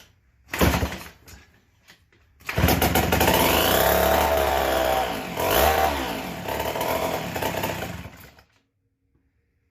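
Vintage McCulloch Model 73 gear-drive two-stroke chainsaw running on a shot of primer with no fuel in the tank. It fires in two short bursts, then catches about two and a half seconds in and runs for around six seconds, revving up and down. It cuts out abruptly when the prime is spent.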